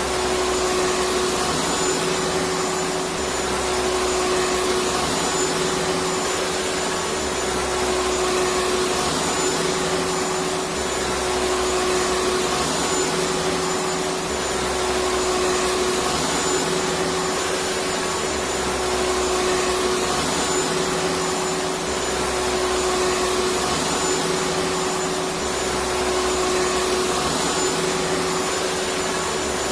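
Electric vacuum cleaner running steadily: a continuous whooshing whir with a steady mid-pitched hum. Its low rumble swells and fades on a regular cycle about every three and a half seconds.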